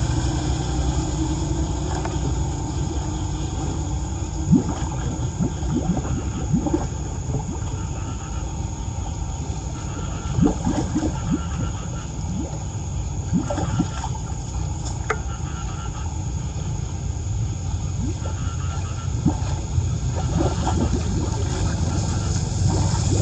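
Floodwater gurgling and splashing, with many short bubbly plops over a steady low rumble.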